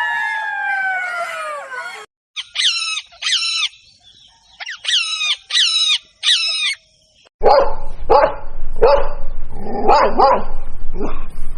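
A drawn-out animal call falling in pitch ends about two seconds in, followed by short high chirps in quick pairs. From about seven seconds in, a dog barks repeatedly; this is the loudest part.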